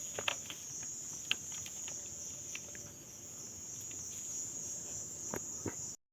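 Steady high-pitched chirring of insects in the field, with a few faint scattered clicks; it cuts off abruptly just before the end.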